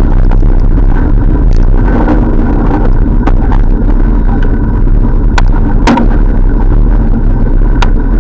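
Loud, steady rumble of wind and road on a camera riding along on a moving bicycle, with scattered sharp clicks and rattles.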